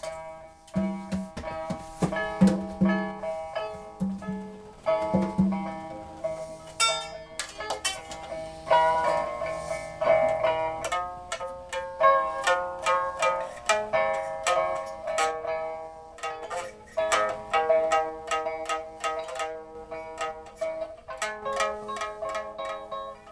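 Instrumental music on a plucked zither: a melody of single plucked notes, each ringing and fading, with occasional quick runs and a few lower bass notes near the start.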